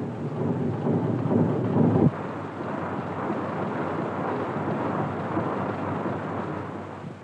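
Steady, noisy rumble of an early diesel engine running, on an old film soundtrack. A deeper, evenly pitched layer under it stops abruptly about two seconds in.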